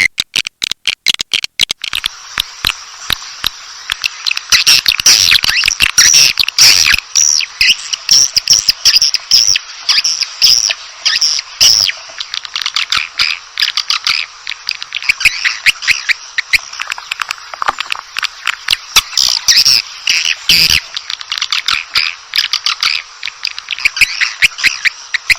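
Swiftlet calling sound: a loud, dense track of rapid swiftlet chirps, twitters and clicks, played to lure swiftlets into a bird house. The first two seconds come in choppy bursts, then the chirping runs continuously over a faint steady low tone.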